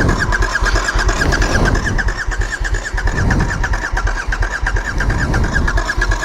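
Motorcycle engine being cranked on its electric starter without catching: a fast, even whirring chatter that goes on unbroken.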